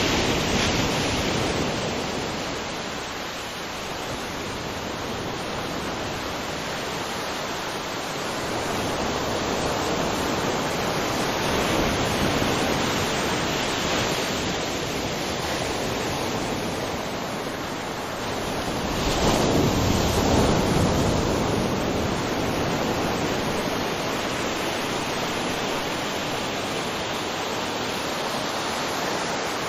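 Ocean surf washing onto a beach: a continuous rush of waves that swells and ebbs slowly, with the biggest wave about two-thirds of the way through.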